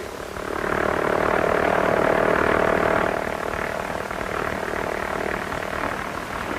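Propeller aircraft engine droning steadily, swelling over the first second and easing a little after about three seconds.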